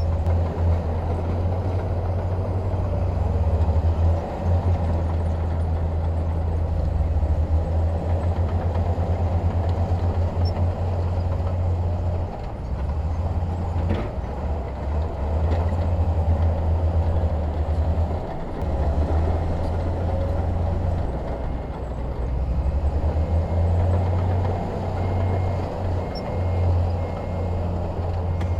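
Heavy diesel engines of earthmoving machinery working, a deep rumble that swells and eases throughout. There is a single sharp knock about halfway through, and a faint, regular high beeping near the end.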